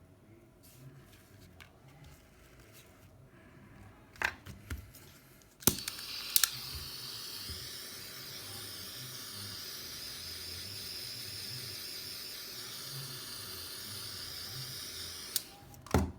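Hot-air tool blowing as a steady high hiss for about ten seconds, starting abruptly about six seconds in and cutting off near the end, with small tool clicks and knocks before and after. The hot air softens the display's adhesive.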